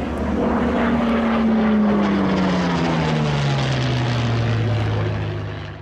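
Propeller-driven piston-engine fighter plane flying past, its engine note falling steadily in pitch as it passes, then fading near the end.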